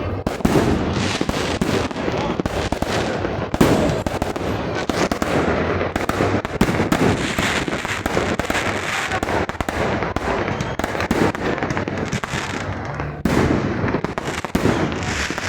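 Fireworks going off in a dense, continuous barrage of rapid crackling bangs, with no pause.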